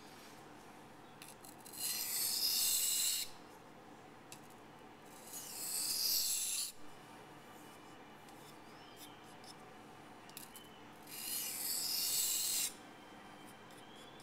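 Folding knife blade stroked across a wet sharpening waterstone: three long gritty, hissing passes with pauses between them.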